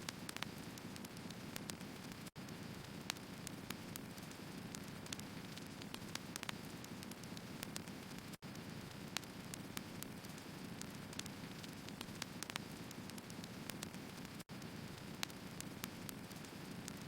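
Firewood burning in an open fire: a steady hiss with frequent sharp crackles and pops. The sound drops out for an instant three times, about every six seconds.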